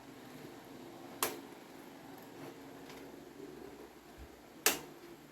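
Two sharp clicks, about three and a half seconds apart, the second louder, as hard parts are handled and knocked together during a fan repair.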